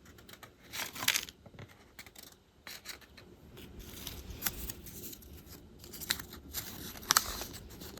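Diamond painting handwork: small clicks, taps and scratchy rustles of hands handling the plastic tools and supplies, with the sharpest clicks about a second in and near the end.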